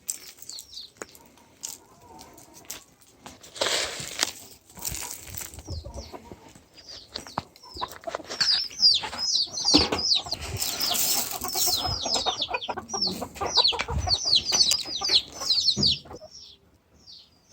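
Poultry crowding in to be fed: wings flapping and chickens clucking, with rapid runs of short, high, falling chirps from about eight seconds in.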